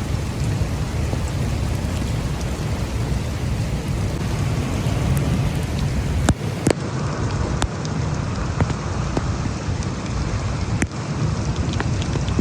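Heavy thunderstorm rain driven by strong wind: a dense, steady rush with heavy low wind noise, and scattered sharp ticks of impacts throughout.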